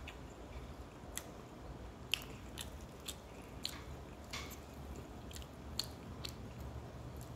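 A person chewing food with the mouth, giving irregular short sharp clicks about once or twice a second over a faint steady low hum.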